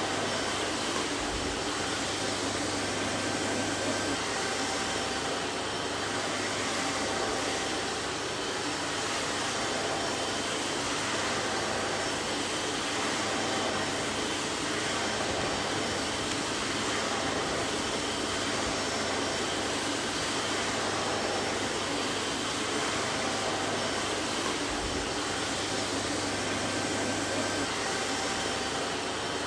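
Vacuum cleaner running steadily, a constant rushing whir with a faint motor hum and whine.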